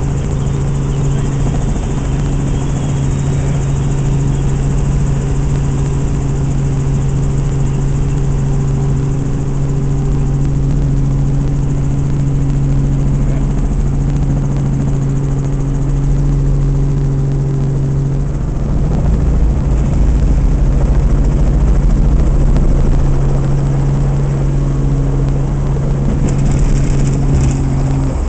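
Helicopter in flight heard on board: a steady low drone from the rotor and engine over a rushing wind noise. The low rumble swells for a few seconds about two-thirds through, and the drone drops away at the very end.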